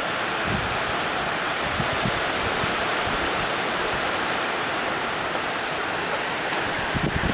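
Heavy rain pouring down: a steady, dense hiss of falling water. A few low buffets of wind on the microphone come near the end.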